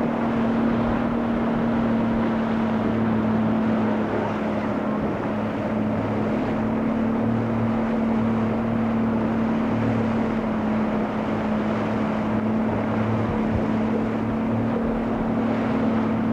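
A boat's motor running steadily at an even pitch, with wind and water noise around it.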